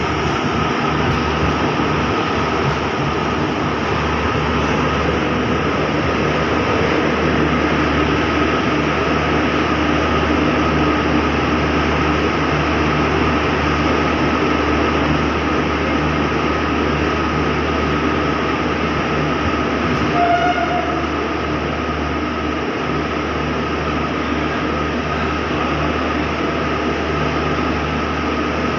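Passenger train running slowly into a station, heard from on board: a steady rumble and hum of the moving coach with a steady high whine. A short pitched sound stands out once, about twenty seconds in.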